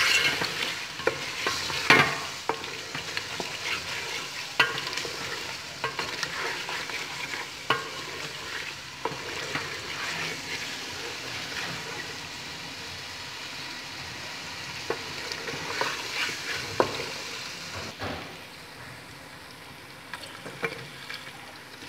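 Mutton and onion-tomato masala sizzling in oil in a metal pot while a spatula stirs it, scraping and clicking against the pot every second or two. The sizzle quietens near the end.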